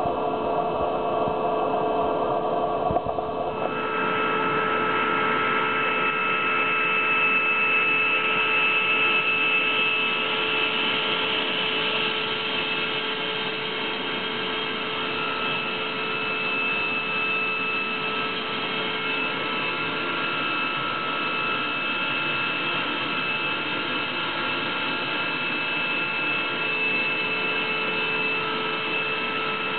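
Dirt Devil vacuum cleaner running with its suction hose in use: a steady motor drone with a held high whine. Its tone shifts noticeably about three and a half seconds in, then stays steady.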